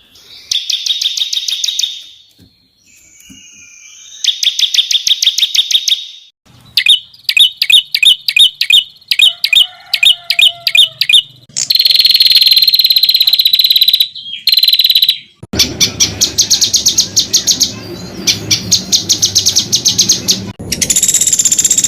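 Songbirds singing fast, rapid-fire trills of the kind bird keepers call 'tembakan', in runs of quickly repeated sharp notes that start and stop abruptly. From about fifteen seconds in, a low rumble of background noise sits under the trills.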